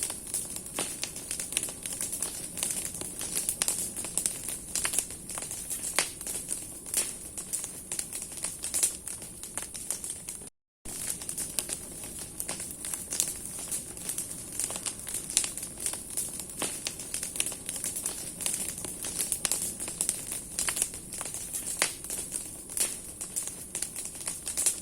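Large bonfire of branches burning: dense crackling and sharp snaps of burning wood over a steady hiss. The sound cuts out completely for a moment just over ten seconds in.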